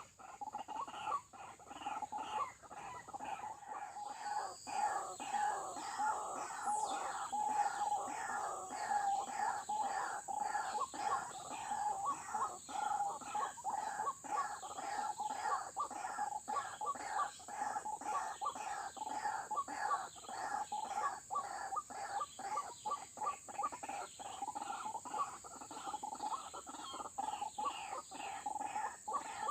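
White-breasted waterhen calling: a monotonous chorus of short, rapidly repeated guttural notes, several a second, with no let-up. A steady high-pitched tone sounds behind it.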